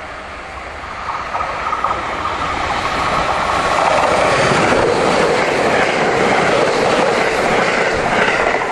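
JR West 681 series limited express electric train passing through the station at speed, its rolling noise swelling from about a second in and running loud through the second half.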